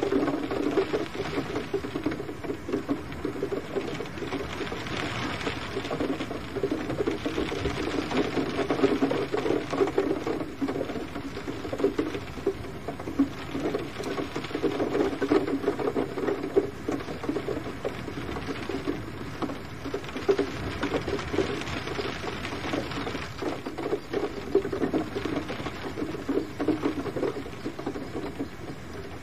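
Gentle rain pattering steadily on a surface, a dense stream of small drops that swells and eases every few seconds.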